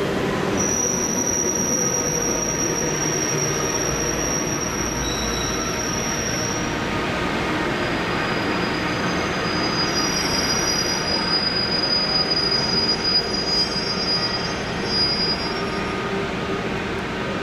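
JR 211 series electric train pulling into a station, its brakes squealing in high, steady tones over the rumble of the wheels. There is a long squeal from about half a second in, then several overlapping squeal tones in the second half that die away near the end.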